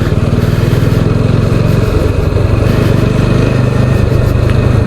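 Motorcycle engine running steadily with an even low pulse, no revving.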